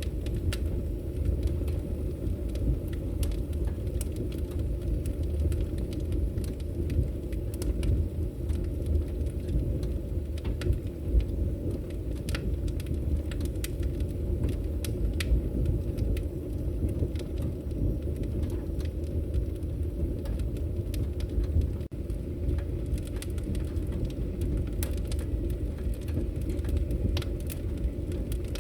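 Wood fire crackling in a fireplace: a steady low rumble of burning with many irregular sharp pops and crackles scattered throughout.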